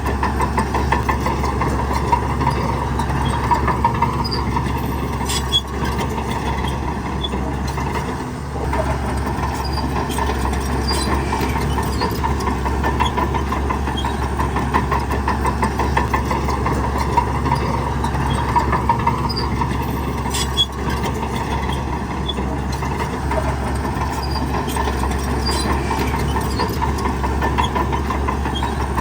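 Diesel engine of heavy earthmoving machinery running steadily, with a few faint clicks and a brief dip about eight seconds in.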